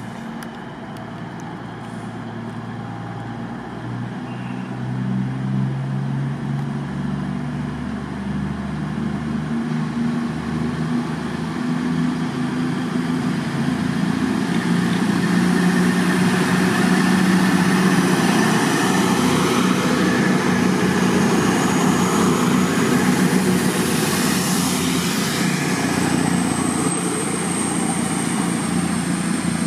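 A train running through the station, its low motor note growing louder over the first half and then holding steady. A thin high whine comes in near the end.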